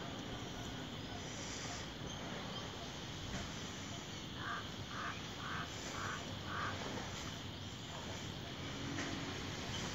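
Steady outdoor hiss with a faint steady high buzz, and a bird calling five times in quick, even succession about halfway through.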